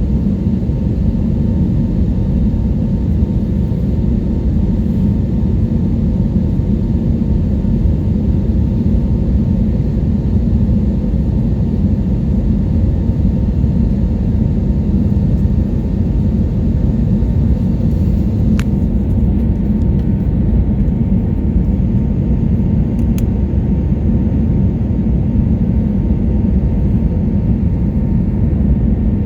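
Airliner cabin noise in flight: a steady, loud, deep rumble of engines and airflow.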